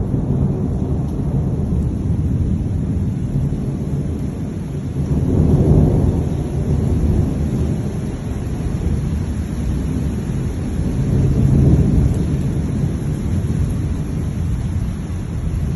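Thunder rumbling on and on in a storm, with rain, swelling louder about six seconds in and again near twelve seconds.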